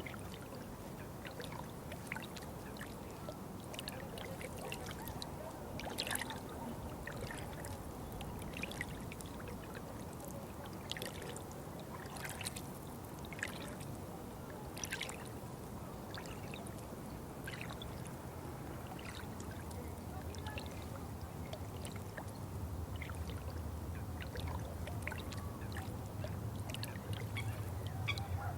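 Water trickling and pouring steadily, with many small drips and splashes scattered through. A low rumble builds under it in the last few seconds.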